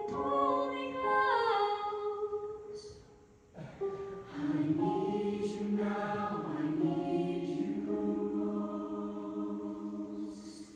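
Show choir singing sustained chords in several parts, largely a cappella; the voices break off briefly about three and a half seconds in, then hold one long chord that fades out near the end.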